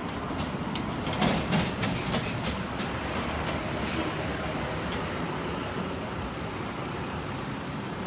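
Street ambience: a steady rumble with scattered clicks and knocks, briefly louder about a second in.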